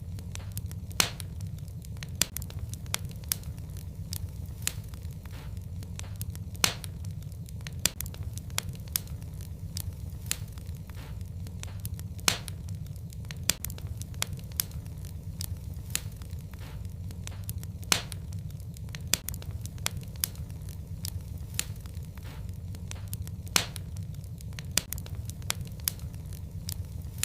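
Wood fire burning in a fireplace: irregular sharp crackles and pops over a steady low rumble of the flames, with a louder pop about every six seconds.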